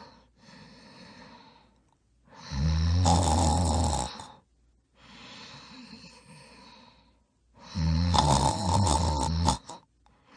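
A sleeping person snoring: two loud, low snores of about two seconds each, some five seconds apart, with quieter breaths between them.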